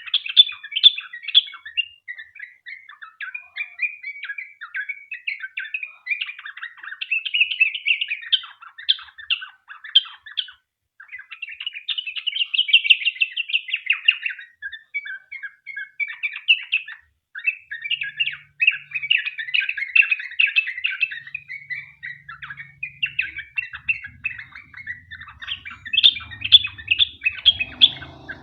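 Yellow-vented bulbul (trucukan) singing a long, fast, unbroken run of chattering song, with only a couple of brief pauses.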